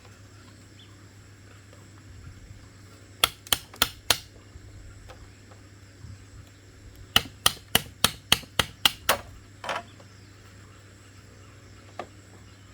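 Hammer blows on bamboo during wall building: a run of four quick strikes, a pause, then a run of eight strikes at about four a second.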